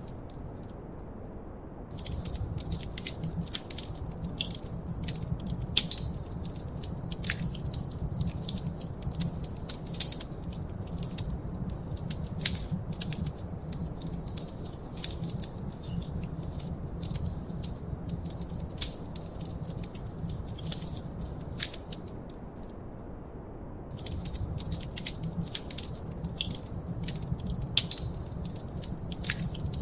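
Wood fire crackling in a fireplace: dense, irregular pops and snaps over a low steady rumble. The crackling briefly drops out twice, at the very start and about three quarters of the way through.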